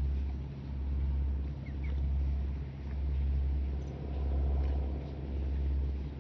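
Airplane engines droning low and steady, the sound swelling and fading in an even beat about once a second.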